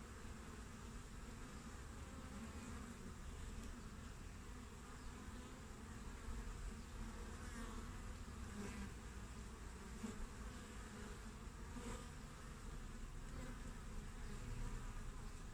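Honeybees buzzing steadily at the hive entrance, a continuous hum of many bees with individual bees swelling briefly as they fly past.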